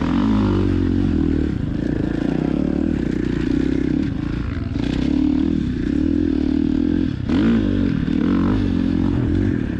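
Dirt bike engine running under riding load, its pitch rising and falling with the throttle, with sharper revs about five and seven and a half seconds in.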